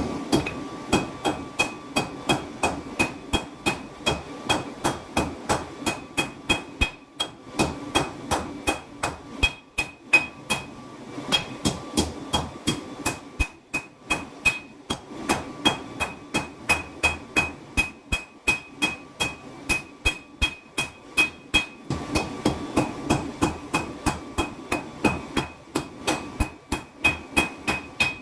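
Hand hammer forging 5160 leaf-spring steel on an anvil, blows coming in a steady rhythm of about two to three a second, each with a short metallic ring. The hammering stops briefly now and then before picking up again.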